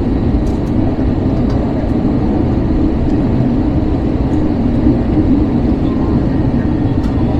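Steady low rumble of an Airbus A321's cabin: engine and airflow noise heard from a seat inside the aircraft.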